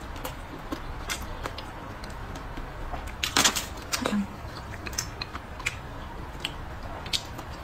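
Close-miked eating sounds: chewing with wet mouth clicks and smacks, and light clicks of chopsticks on the food and bowl. A louder cluster of clicks comes about three and a half seconds in.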